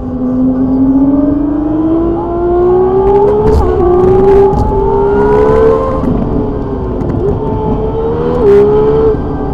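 Car engine heard from inside the cabin, accelerating hard: its note climbs steadily and drops sharply at each upshift, about three times, with a short click at the bigger shifts.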